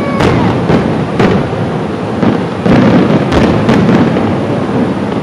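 Fireworks display: a string of sharp bangs, about eight in all, over a continuous low rumble of booms.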